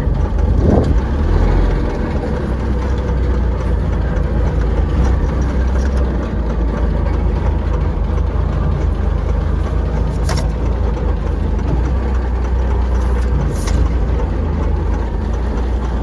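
Engine of a 1940s Chevrolet army truck, a straight-six, running steadily with no revving.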